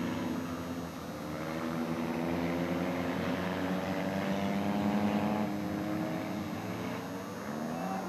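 Engines of several skid-plate race cars revving as they accelerate and slide. The pitch climbs over the first few seconds, drops about five seconds in and rises again near the end.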